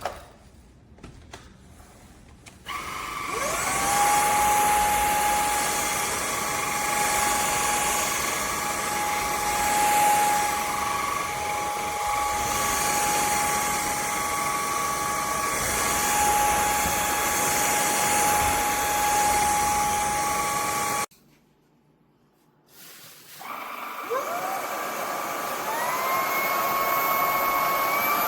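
VIAFLY cordless stick vacuum's motor running with a steady high whine. It spins up with a rising whine about three seconds in, cuts off suddenly about two-thirds of the way through, then is switched on again and winds back up in rising steps.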